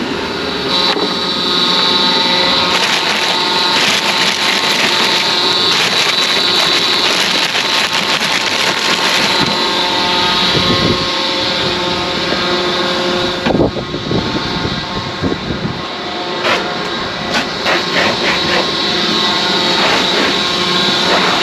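Scania truck running with a steady mechanical whine and hum. A few sharp knocks come about 13 to 14 seconds in, and a run of clicks and rattles follows a little later.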